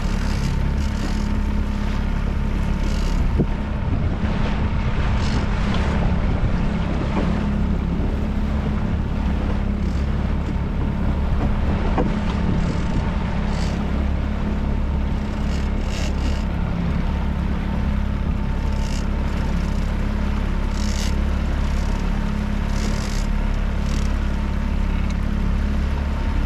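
Small boat's outboard motor running steadily, a constant low hum, with water splashing at the hull and wind on the microphone.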